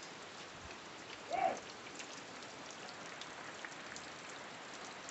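Heavy rain falling: a steady hiss of drops with scattered small ticks. A brief, faint pitched sound rises and falls about a second and a half in.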